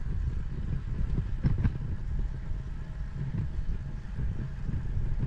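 Wind rumbling and buffeting on the microphone of a bike-mounted 360 camera while cycling. There is a brief click about a second and a half in.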